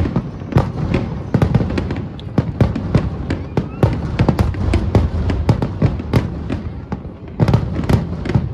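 Fireworks exploding in rapid succession, many sharp cracks and bangs a second over a continuous low rumble.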